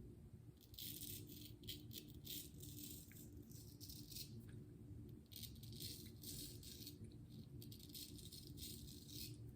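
Faint razor strokes scraping through lathered stubble, a quick irregular run of short scratches.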